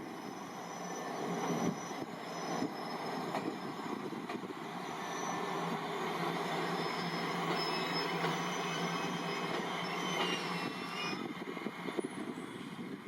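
Abukuma Express 8100 series two-car electric train pulling out, its wheels running over the rails with thin high squeals, growing louder as it gets under way.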